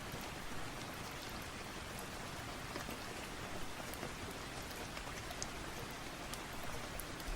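Steady rain falling, a dense even patter with scattered sharp drop ticks.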